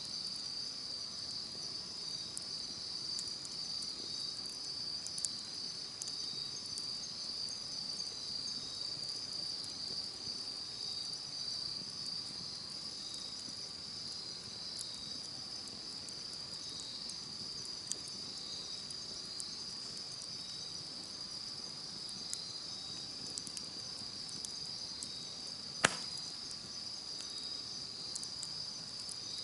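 A steady chorus of singing insects chirring in a high, slightly pulsing band, over a campfire crackling with scattered small clicks. One sharp, loud pop from the fire comes near the end.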